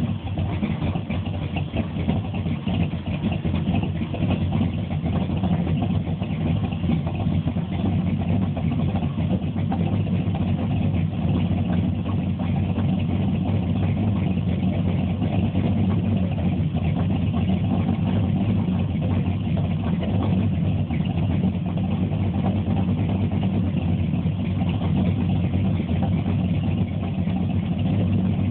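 ZZ502 big-block Chevy V8 crate engine with Powerjection III throttle-body fuel injection, running steadily at an even speed with no revs.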